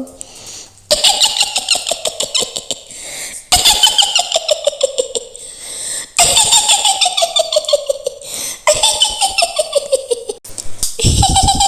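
A shrill witch's cackle, the Mak Lampir laugh, in rapid pitched pulses that fall in pitch over each run. It repeats about four times, and a fresh run starts near the end.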